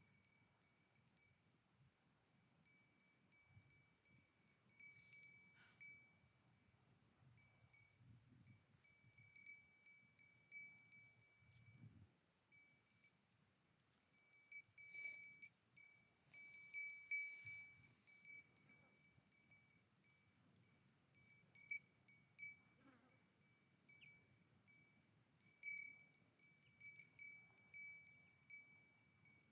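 Cowbell on a grazing cow clanking irregularly as she moves her head, ringing at the same few bright pitches each time, over a faint low rustling.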